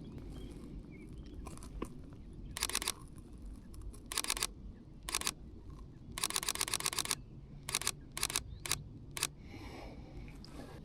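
Sony A6700 mechanical shutter firing in rapid bursts. There are about eight bursts, each a fast rattle of frames, the longest lasting nearly a second.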